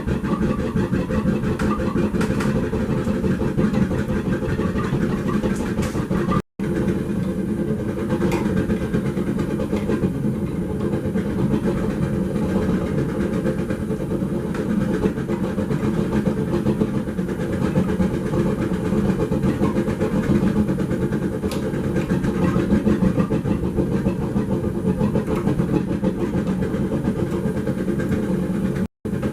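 Gas forge burner running with a steady roar, cut off for an instant twice.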